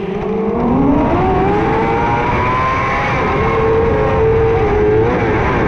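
600cc micro sprint car's motorcycle-derived engine accelerating hard: its pitch climbs steeply over the first second and a half, then holds at high revs with brief small dips.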